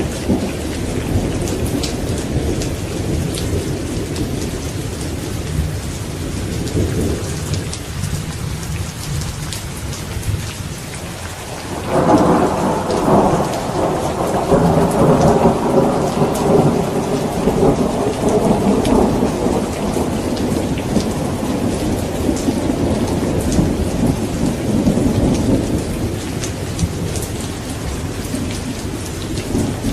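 Steady rain with thunder. A low rumble dies away over the first few seconds, then a loud thunderclap breaks about twelve seconds in and rolls on for more than ten seconds before fading.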